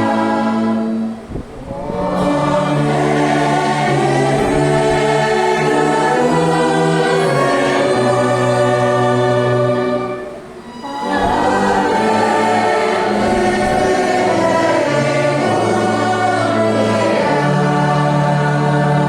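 Congregation singing a slow hymn together with orchestra accompaniment in long, held chords, pausing briefly between phrases about a second in and again about ten seconds in.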